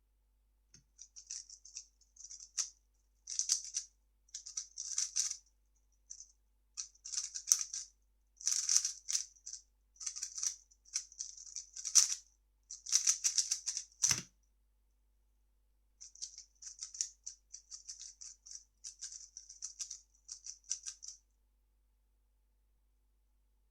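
A 3x3 speed cube being turned fast: a dense, uneven clatter of plastic layer turns for about thirteen seconds, ending in a single thump. After a pause of about two seconds, lighter turning clicks resume for about five seconds.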